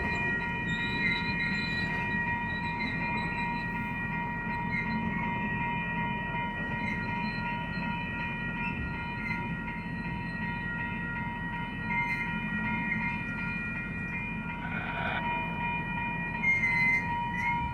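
Norfolk Southern freight train cars rolling past, with a steady low rumble and steady high-pitched squealing tones from the wheels over the whole stretch. There is a short scraping burst about fifteen seconds in.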